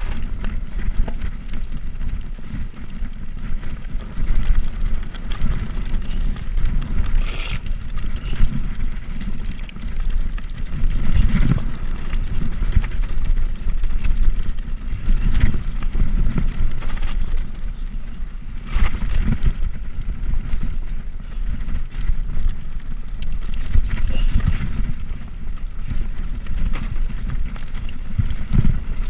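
Wind buffeting the microphone on a moving bicycle, a steady low rumble, with brief rattling clatters every few seconds as the bike goes over bumps.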